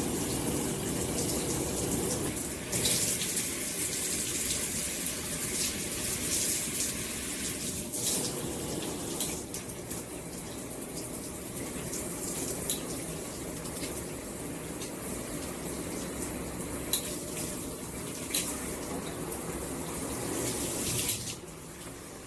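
Water running steadily from a shower head, with a few sharp splashes or clicks. The spray changes character a few seconds in and again around eight seconds, and drops off shortly before the end.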